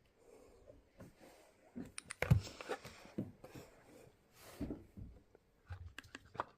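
Hands handling an unboxed JBL Grip Bluetooth speaker and its packaging: scattered rustles, light taps and clicks, busiest and loudest about two seconds in, with a few sharp clicks near the end.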